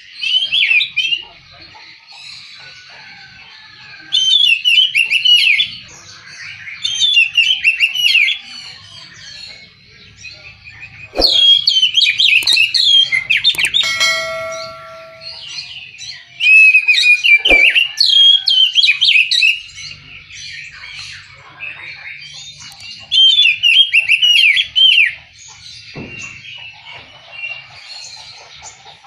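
Oriental magpie-robin (kacer) singing in bursts of fast, varied warbling phrases, about seven bursts with short pauses between them. A few sharp clicks and a brief steady tone come in between the phrases.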